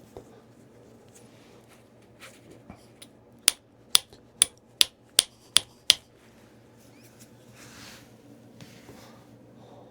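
Flintknapping: a bopper striking the edge of a Tallahatta quartzite point in percussion flaking. It gives a few light taps, then a run of about six sharp clicks, roughly two a second, in the middle.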